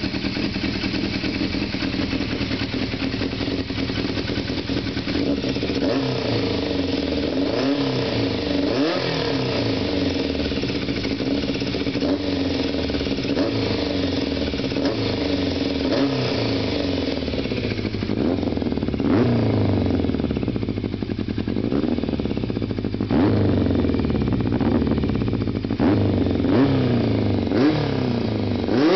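1998 Yamaha FZ400 Fazer's 400 cc inline-four engine running through a handmade aftermarket exhaust, revved again and again with short throttle blips, the pitch rising and falling every second or two.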